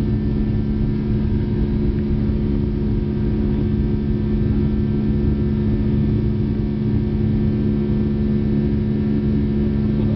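Boeing 757 engines heard from inside the passenger cabin: a steady, loud drone with a constant hum and a low rumble, unchanging throughout.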